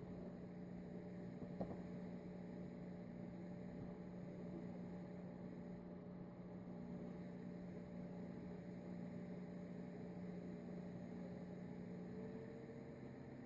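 Faint, steady electrical hum, with a single light click about one and a half seconds in; near the end the hum drops to a lower pitch.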